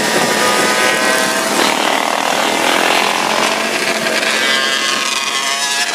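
Dirt bike engine running at high revs, a loud high-pitched buzz with a lot of hiss.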